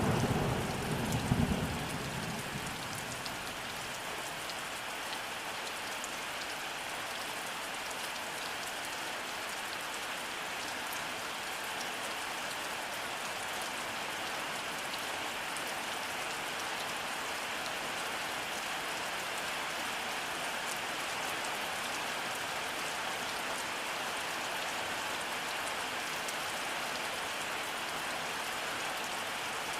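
Steady rainfall pattering, with the last of a thunder rumble dying away in the first couple of seconds.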